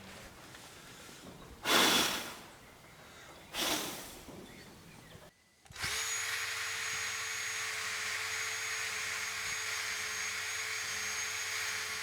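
Electric power tool blipped twice, then switched on and running steadily at a constant pitch with a high whine.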